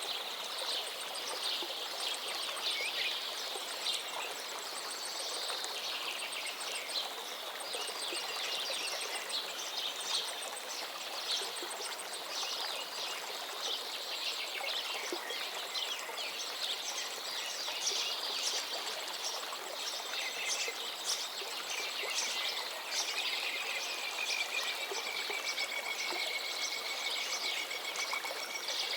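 Many birds chirping and singing over the steady rush of a calm river. In the last few seconds one bird holds a long, even trill.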